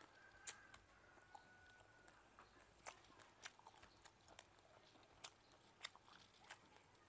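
Faint chewing and biting of grilled frog meat, picked up close by a clip-on microphone: scattered sharp clicks and small crunches, about a dozen in all.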